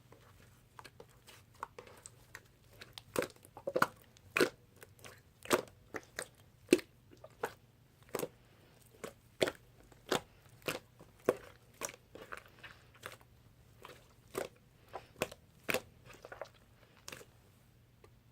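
Pink clear slime being pressed and kneaded by hand, giving sharp popping clicks at about two a second, loudest through the middle and tapering off near the end.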